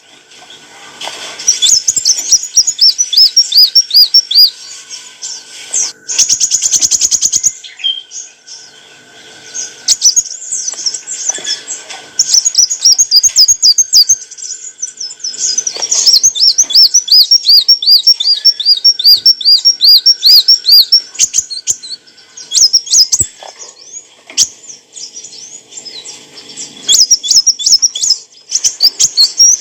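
Kolibri wulung sunbird singing: long runs of fast, high, thin chirps repeated several times a second, broken by short pauses, with a rapid buzzing trill about a quarter of the way in.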